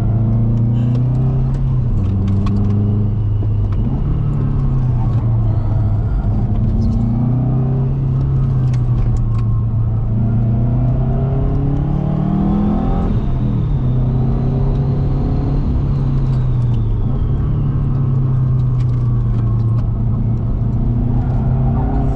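Subaru WRX's turbocharged flat-four engine driven hard, revs climbing and dropping again and again with shifts and throttle lifts. A faint high whine rises and falls near the middle.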